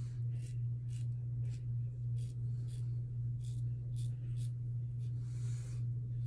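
KARVE safety razor with a Gillette Super Thin blade scraping through lathered stubble in short strokes, about two a second, with one longer stroke about five seconds in. A steady low electrical hum sits underneath throughout.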